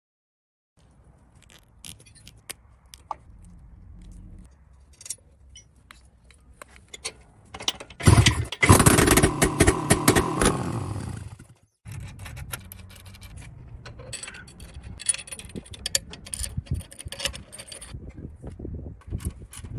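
Workshop handling sounds: scattered clicks, knocks and scrapes, with a loud noisy stretch of about three and a half seconds starting some eight seconds in.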